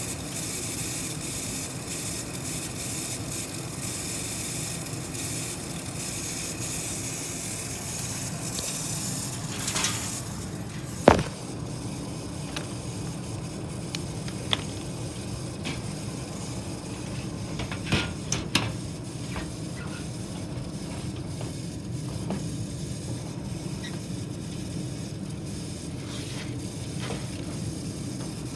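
Furnace draft inducer motor running with a steady grinding noise, the sign of a failing inducer motor that needed replacing. A few sharp clicks or knocks sound through the middle, the loudest about eleven seconds in.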